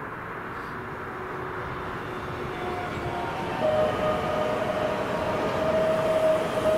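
A train approaching on the line, its rumble growing steadily louder, with a steady high-pitched tone setting in about halfway through.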